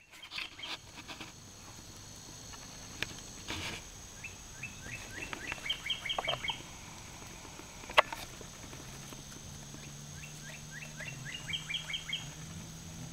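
A songbird singing: two runs of short, quick, rising chirps that come faster as each run goes on, one a third of the way in and another near the end. A single sharp click about eight seconds in.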